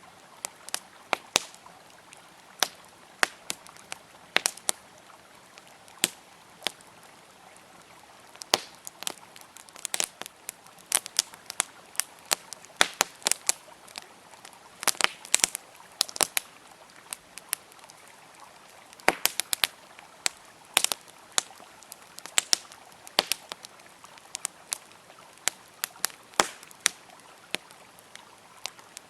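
Wood campfire crackling and popping irregularly, many sharp snaps in quick clusters, over the steady rush of a flowing river.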